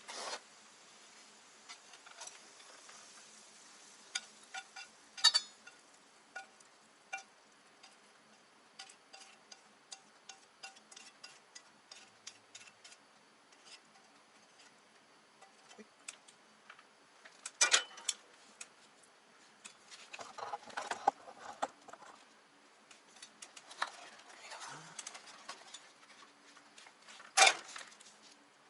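Scattered small clicks and clinks of tableware being handled, with a few louder sharp knocks about five seconds in, near the middle and near the end.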